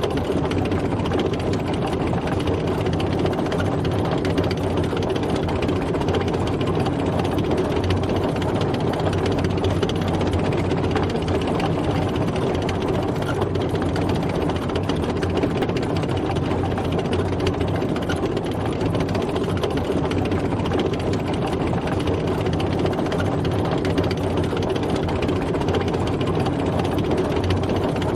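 Military tank driving, its heavy engine running steadily without any change in pace.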